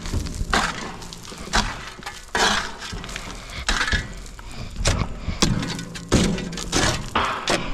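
Irregular crunching and cracking impacts, roughly one a second, over a low engine hum: excavation machinery breaking and scraping through debris.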